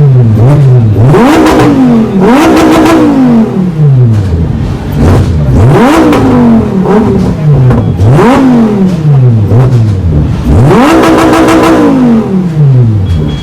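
A high-performance car engine revved hard about six times in a row, its loud exhaust note rising sharply on each rev and then falling away slowly as it returns toward idle.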